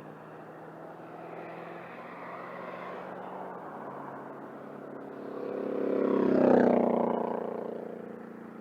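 Small motor scooter's engine idling steadily while stopped at a traffic light. A passing vehicle swells up and fades away, loudest about six and a half seconds in.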